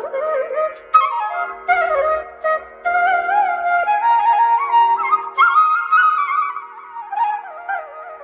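Background music: a flute playing an ornamented melody with frequent pitch glides, over a steady held drone.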